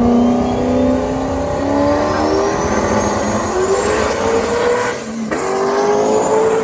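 Drag-racing car at full throttle down the strip, its engine note rising steadily, dropping briefly about five seconds in at a gear change, then rising again.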